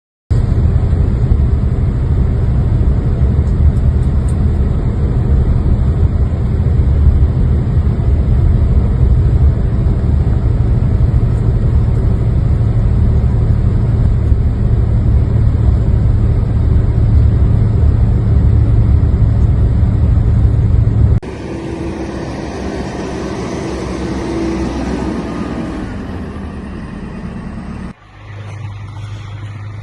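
Motor vehicle engine running, a loud low rumble. It cuts to quieter traffic sound about 21 seconds in, with a steady tone that falls away, then cuts again near the end.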